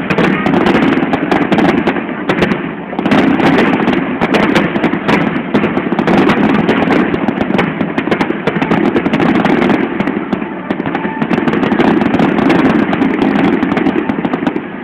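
Fireworks display going off in a dense barrage: many sharp cracks and pops over a continuous crackle, with a brief lull about three seconds in.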